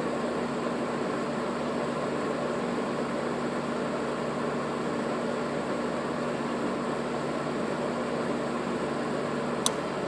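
GE window air conditioner running, its fan blowing steadily under a low hum from a compressor with a locked rotor. Near the end there is one sharp click, and the hum drops out while the fan keeps going.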